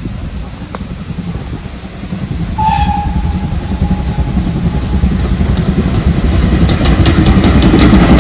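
Steam train approaching. Its whistle sounds once, a single held note, about two and a half seconds in and fades out. The rumble of the train grows steadily louder, with sharp repeated clicks building near the end as it draws close.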